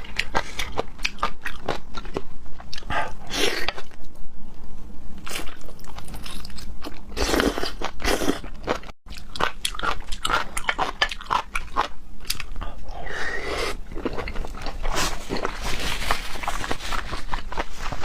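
Close-miked chewing of raw seafood: a dense run of wet mouth clicks and crunches, broken by a few longer slurping sounds.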